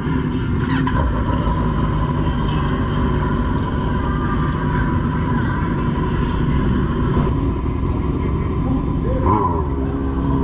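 Motorcycle engine running steadily, with a constant engine and road drone.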